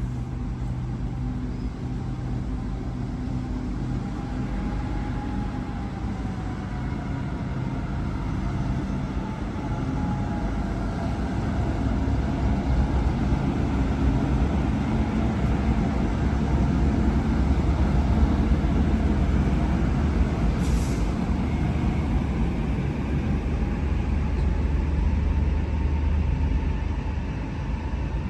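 A train running through the station with a steady low engine drone and wavering tones above it, growing louder and then easing near the end.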